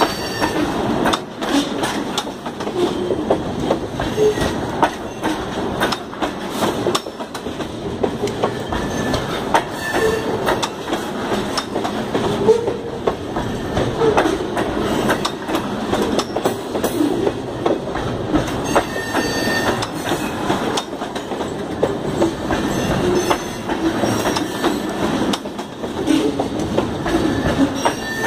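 Railroad freight cars rolling along the track: a continuous rumble full of rapid clicks and clanks from wheels and couplers, with a few brief high wheel squeals here and there.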